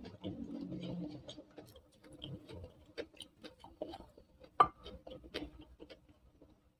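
Close-up eating sounds: soft, scattered wet clicks and smacks of chewing, with one sharper click or crunch a little past halfway.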